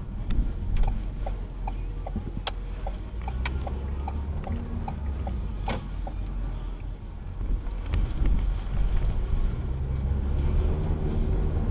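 Steady road and engine noise of a moving car, heard from inside the cabin. In the first half a run of evenly spaced light ticks, about two to three a second, plays over it, with a few sharper clicks.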